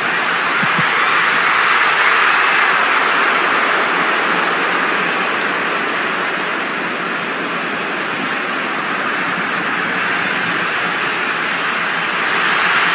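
Large stadium crowd noise: a steady, loud din of thousands of spectators.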